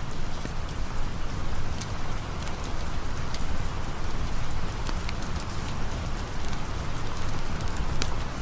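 Steady rain falling, an even hiss with scattered sharp ticks and pops running through it.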